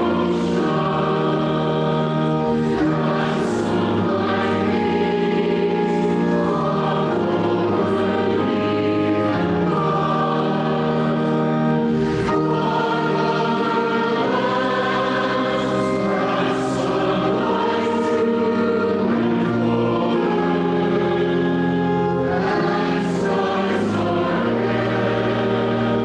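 Church congregation singing a hymn together, with sustained notes changing every second or two.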